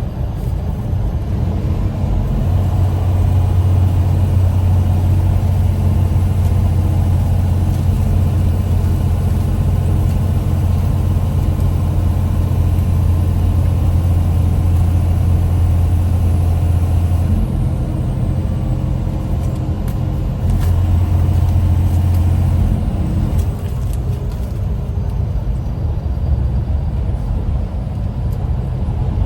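A vehicle engine running with a steady deep hum. The hum drops out about two-thirds of the way through, returns briefly, then drops out again.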